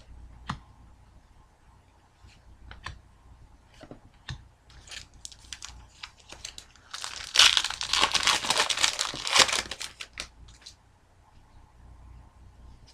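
A trading card pack wrapper being torn open and crinkled, loudest for about three seconds starting some seven seconds in, with light scattered clicks before and after.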